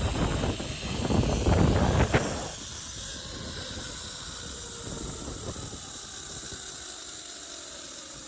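Wind buffeting the microphone on a fast zip-line ride for the first two and a half seconds or so, then a quieter steady hiss of the trolley's pulleys running along the steel cable, with a faint whine falling slowly in pitch as the trolley loses speed.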